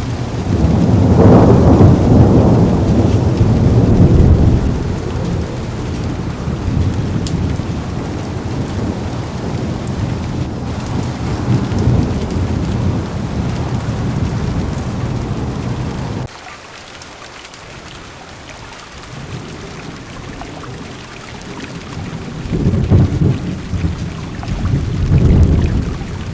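Heavy rain pattering on a car window, with long low rolls of thunder in the first few seconds and again near the end. About two-thirds of the way through, the sound drops suddenly to a quieter, steadier rain.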